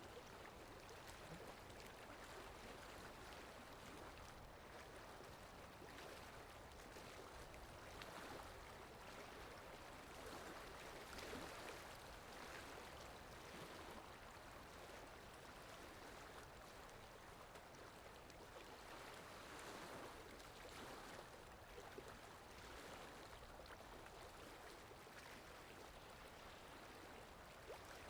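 Faint flowing-water sound effect: a steady rushing with gentle swells in loudness.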